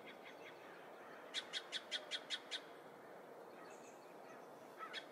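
A songbird singing short phrases of about seven quick, even, high notes, the phrase repeated every few seconds, faint over a steady low hiss.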